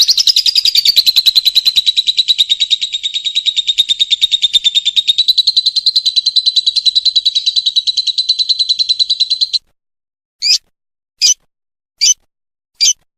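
Lovebird giving its long 'ngekek' trill: a fast, even, rattling chatter held at one pitch for about nine seconds that stops abruptly. It is followed by single short calls spaced a little under a second apart.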